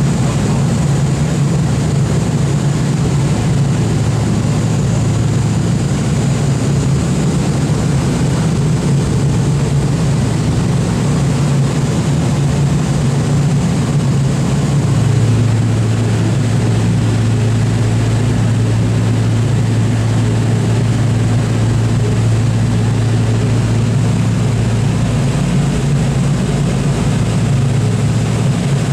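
Boeing B-29 Superfortress's four Wright R-3350 radial piston engines running with a steady propeller drone. The engine note shifts about halfway through and then holds steady.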